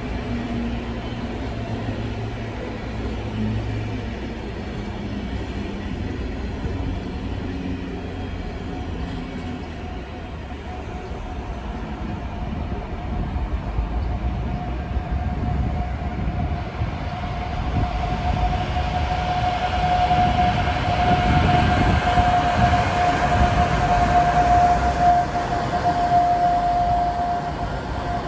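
Passenger train running past on the station tracks: a steady rumble of the coaches, with a steady high-pitched tone that grows louder over the second half.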